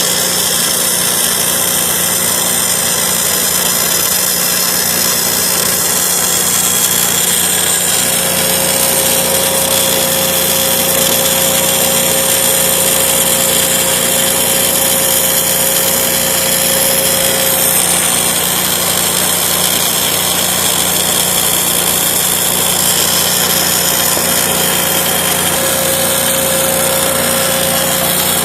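Machinery running steadily with an even drone, and a thin whine that comes in about eight seconds in, drops out around halfway, and returns near the end.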